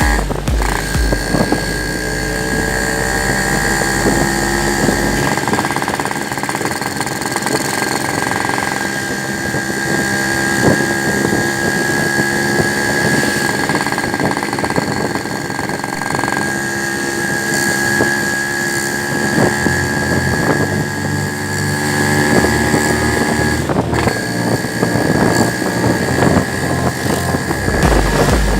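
A vehicle's engine and road noise running steadily while riding.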